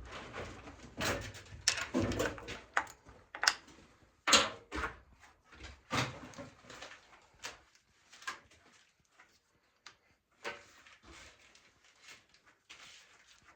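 Irregular knocks, clanks and scrapes of tools and transmission parts being handled. There are several sharp strikes in the first half, and they thin out and grow quieter after about six seconds.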